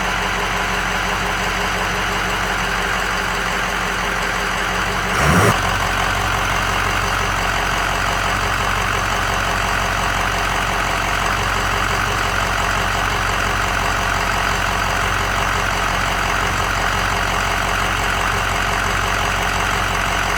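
Ford 6.0 Powerstroke turbo-diesel V8 idling steadily, with a brief louder burst about five seconds in.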